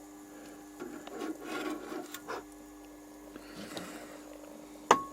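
Metal engine parts and tools being handled and scraped on a workbench over a steady hum. Near the end there is one sharp metallic clank that rings briefly.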